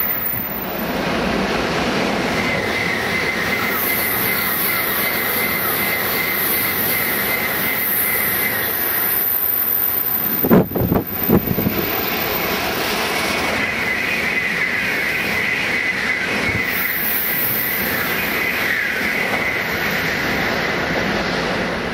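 Shinkansen high-speed train running past at speed: a loud, steady rush of wheel and air noise, with a high whine that fades out and returns. A few sharp thumps come about halfway through.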